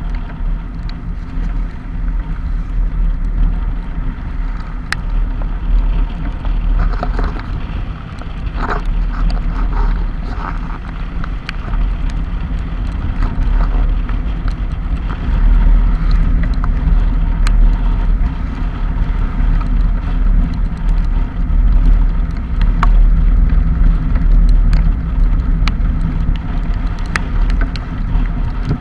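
A vehicle's engine running steadily on the move through rain, with wind on the microphone and scattered sharp ticks.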